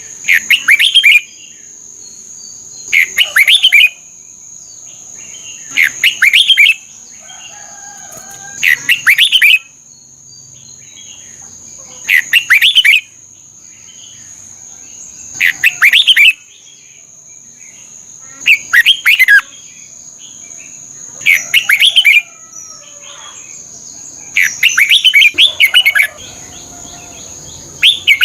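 Red-whiskered bulbul singing: short, loud warbled phrases about a second long, repeated roughly every three seconds, about nine times. A steady thin high-pitched tone runs underneath.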